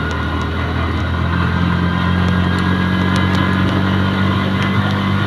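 Engine of a Baobao three-wheeled motorcycle running steadily while being ridden.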